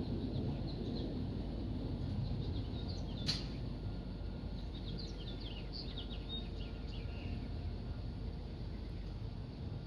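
Small birds chirping over a steady low rumble, with the chirps thickening through the second half. A single sharp click comes about a third of the way in.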